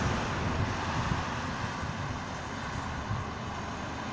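Truck running, a steady low rumble with wind noise on the microphone.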